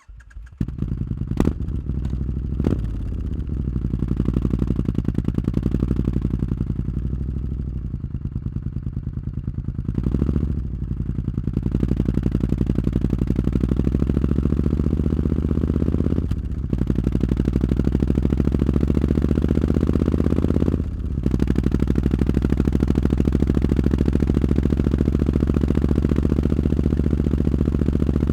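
Triumph Street Scrambler's 900 cc parallel-twin engine, breathing through an aftermarket Zard exhaust, starts up at the very beginning and then idles with a deep, steady beat. Its note changes briefly a few times.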